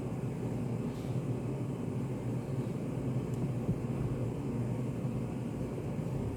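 Steady low hum of a study café's room ambience, with two faint soft clicks, about a second in and a little after three seconds.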